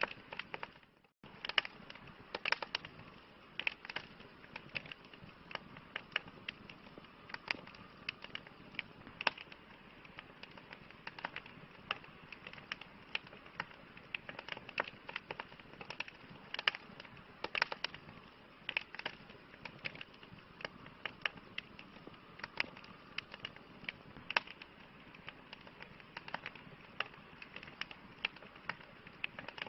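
Wood campfire crackling: irregular sharp pops and snaps over a soft steady hiss, cutting out for a moment about a second in.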